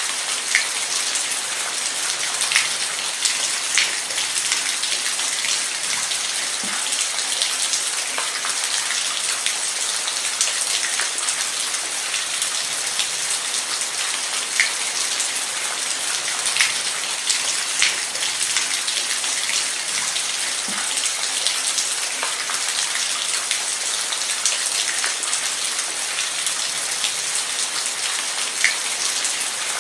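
Steady rain falling on a surface, a constant hiss with frequent individual drops ticking and splatting.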